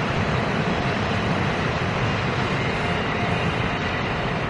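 Taiwan Railways electric passenger train running past, a steady noise strongest in the low range with no distinct wheel clicks.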